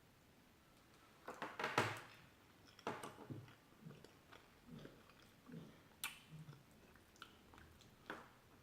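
A person biting into food and chewing close to the microphone. It is quiet for about the first second, then comes a loud bite, followed by irregular softer chewing sounds and a sharp click about six seconds in.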